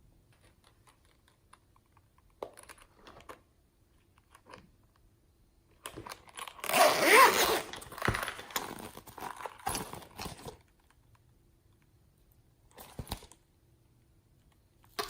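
Crinkling, tearing handling noises in a few short rustles, with one longer, louder stretch about six to ten seconds in.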